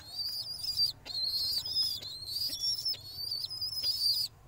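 A bird's high, thin whistled calls, repeated almost without a break about every half second, each a short level note.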